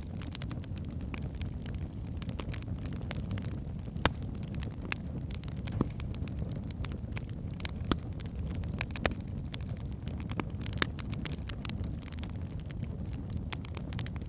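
Wood fire burning in a fireplace: a steady low rumble of flames with frequent sharp crackles and pops of burning logs, a few louder pops about 4, 8 and 11 seconds in.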